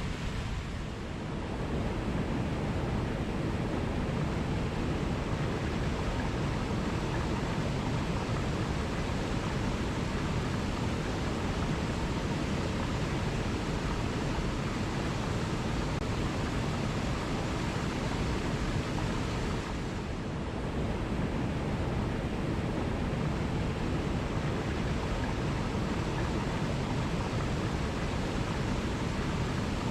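Steady rushing of falling water, an even noise heaviest in the low end, dipping briefly about a second in and again about twenty seconds in.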